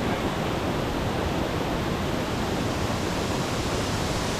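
Waterfall pouring into a lake: a steady, even rush of falling water.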